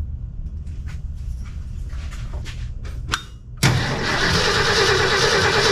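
A few light clicks and a sharp snap, then, about three and a half seconds in, a 1966 Ford F100 V8's starter motor suddenly begins cranking the engine steadily, jumped with a screwdriver at the starter. The engine cranks without firing: it is getting no spark, which the owner suspects is down to corroded points.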